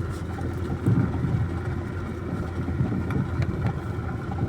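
Car running, a steady low rumble with no speech over it.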